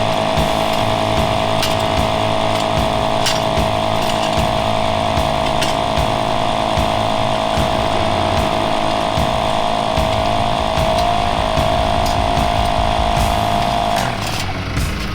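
A small motor, of the kind in a power tool or pump, running steadily at one pitch, then stopping about 14 seconds in.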